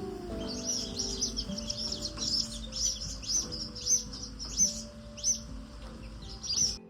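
Common moorhen chicks peeping: repeated short, high-pitched cheeps, about one or two a second, over soft background music with held notes. It all stops abruptly just before the end.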